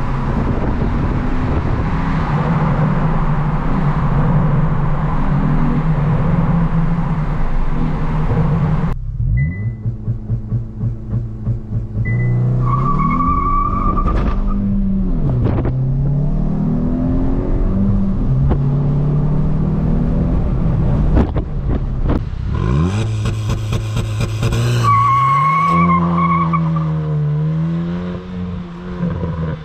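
Hyundai i20 N's turbocharged 1.6-litre four-cylinder engine, first cruising steadily with road noise. It then revs up and drops back repeatedly through hard accelerations and gear changes, with a high steady tone over it twice while pulling. Near the end it accelerates toward the outside camera.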